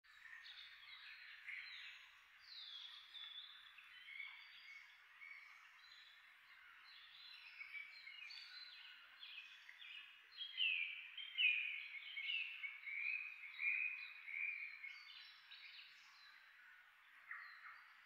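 Several birds calling and singing in short overlapping phrases, many falling in pitch, over a steady background hiss. The calling grows busiest and loudest a little past halfway.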